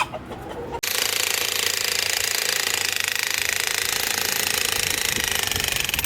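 Jackhammer chiselling concrete, starting abruptly just under a second in and then running steadily as a loud, very rapid hammering.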